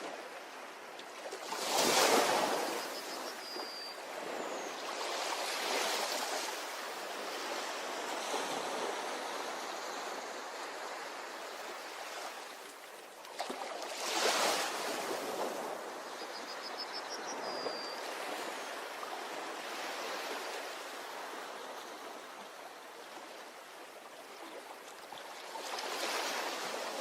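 Ocean surf on a beach: a wave breaks and washes up about two seconds in, again about halfway through and again near the end. Each break is followed by a slowly fading hiss of water.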